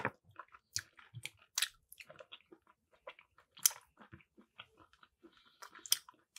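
A person chewing a tough, dry bite of chicken with the mouth closed: irregular chewing clicks, a few louder than the rest.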